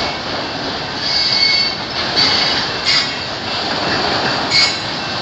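Freight train cars rolling past: a steady rumble and hiss of steel wheels on the rails, with faint high-pitched wheel squeals coming and going.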